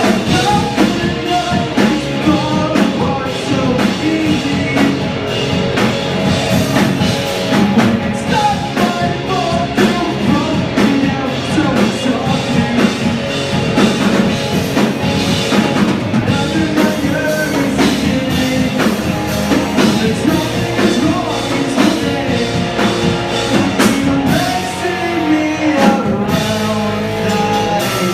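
Rock band playing live: drum kit, electric guitar and bass, with a singer's voice over them.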